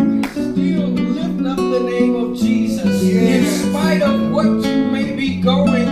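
Guitar music: held chords and notes moving through a progression.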